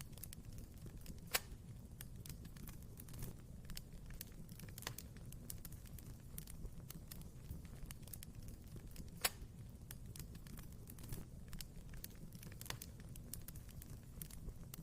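Wood fire crackling in a fireplace: a constant scatter of small snaps, with two louder pops, one about a second in and one a little past the middle, over a steady low rumble.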